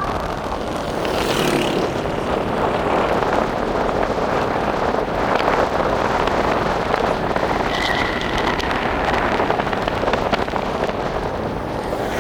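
Steady rushing road and wind noise of a vehicle on the move, with a brief high tone about eight seconds in.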